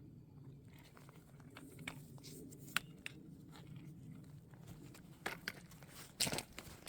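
Footsteps crunching on a gravel hiking trail, scattered light steps with louder ones near the end.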